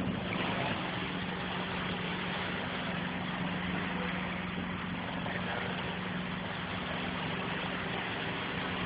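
Motorboat engine idling with a steady, even hum.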